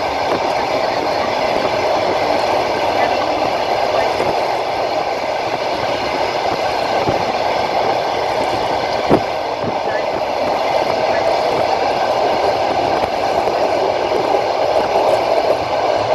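Moving train's wheels running on the rails, heard from inside the carriage as a steady rumble, with a sharp wheel click over a rail joint about nine seconds in.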